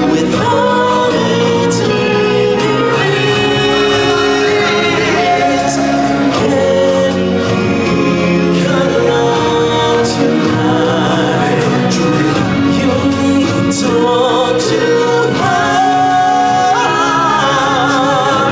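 Stage-show music with singing: voices sing held notes over a full musical accompaniment.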